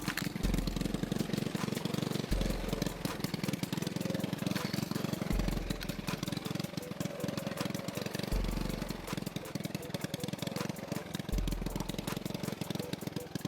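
Small mini-bike engine running steadily at a low, even speed, with a rapid, even pulse.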